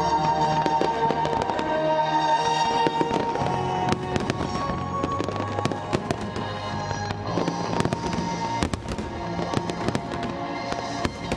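Aerial firework shells bursting in quick succession, many sharp bangs and crackles that come thicker after a few seconds, over orchestral music playing along with the pyromusical display.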